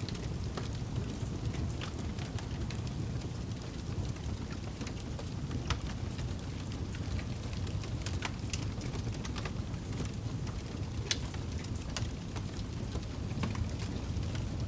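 Wood campfire burning: a steady low rush of flames with frequent, irregular sharp crackles and pops.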